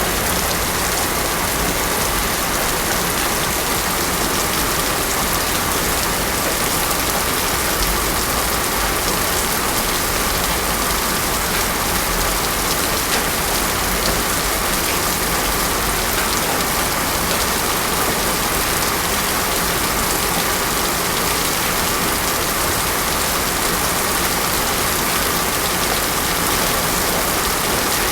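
Heavy rain falling steadily on a paved road, with an even hiss and no thunder.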